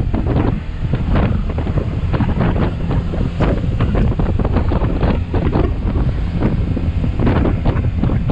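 Heavy wind buffeting on the microphone of a camera riding on a moving motorcycle, a loud low rumble with irregular gusts.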